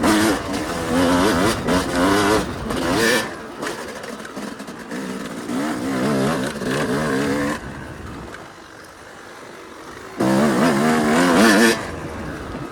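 Yamaha YZ250 two-stroke single-cylinder dirt bike engine under hard throttle, its pitch rising and falling with the revs. It eases off about halfway through and runs quietly for a couple of seconds, then revs hard again for about a second and a half near the end.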